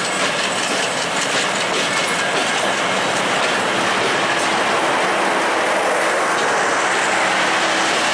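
Broad-gauge Bangladesh Railway passenger coaches rolling past close by as the express pulls out of the station: a steady rumble of steel wheels on the rails with clicking over the rail joints.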